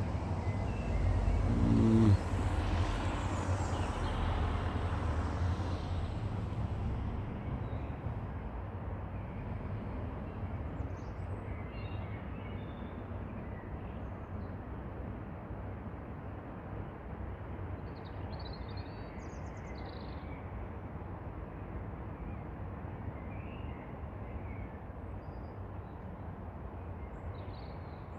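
A vehicle passes, swelling about two seconds in and fading away by about seven seconds, over a steady background of distant traffic. A few short bird calls sound now and then over the rumble.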